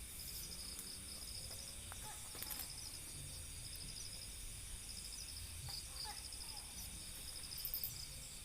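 Night insects, crickets, chirping in a steady chorus: rapid pulsing trills that come and go over a continuous high-pitched buzz, with a faint low rumble beneath.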